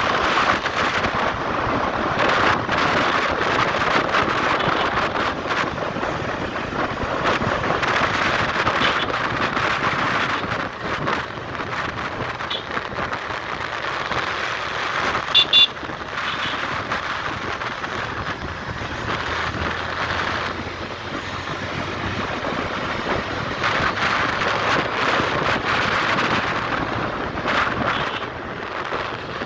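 Steady wind and road noise from a moving motorcycle, with the engine running underneath. About halfway through, two brief high-pitched blips stand out.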